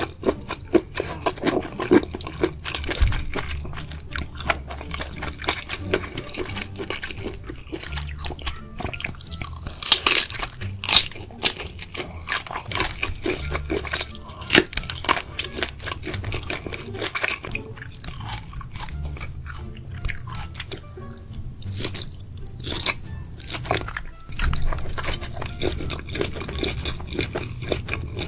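Close-miked eating of spicy seafood: wet chewing and crackly biting throughout, with loud sharp crunches about ten seconds in and again around fifteen seconds, where a prawn is bitten.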